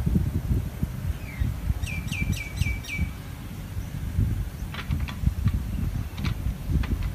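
A bird chirping: a quick run of five short notes about two seconds in, each dropping in pitch and then briefly holding, followed by a few scattered short high notes. Under it is a steady low rumble.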